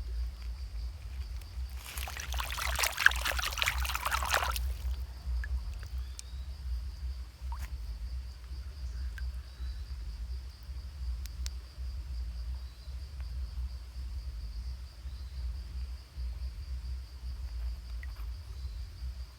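Steady high chirring of insects over a low rumble, broken about two seconds in by a loud burst of rushing noise lasting about three seconds.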